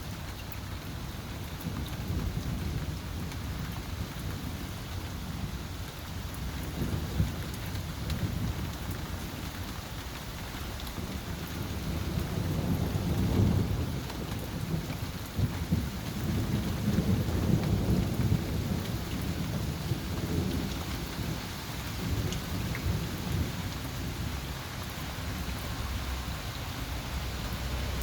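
Thunder rumbling in long, low rolls that swell about halfway through and again soon after, over the steady hiss of rain.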